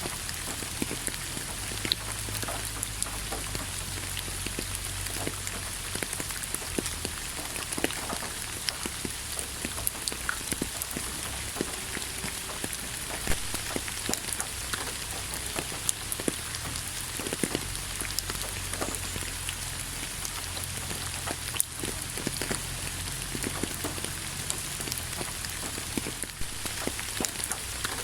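Steady rain falling, with many separate drops heard as short sharp ticks.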